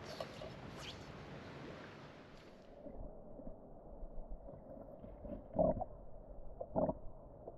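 Steady hiss of flowing creek water, which abruptly turns muffled and dull about three seconds in, with two dull thumps near the end.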